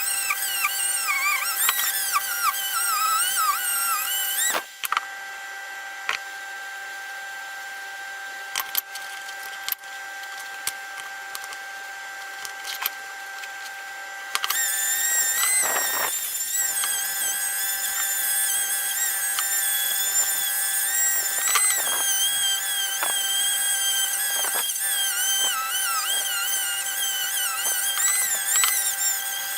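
Small high-speed electric tool running, its whine wavering up and down as the load changes. It stops for about ten seconds in the middle, leaving a few clicks and knocks, then runs again.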